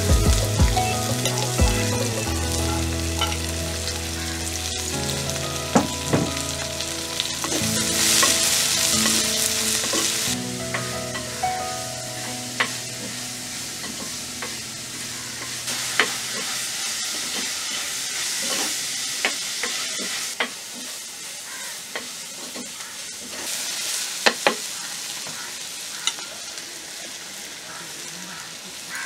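Food sizzling in hot oil in a pan as it is stirred, with a utensil clicking and scraping against the pan now and then. The sizzle swells in a few spells.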